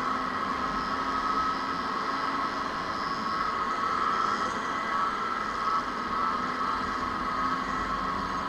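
Two-stroke motorcycle engines running, a steady drone with an unchanging whine.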